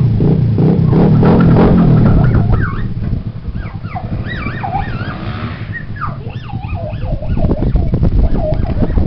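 Honda CRF450 four-stroke dirt bike engine running hard. It is loud and close for the first couple of seconds, then sounds farther off as the revs rise and fall rapidly under throttle.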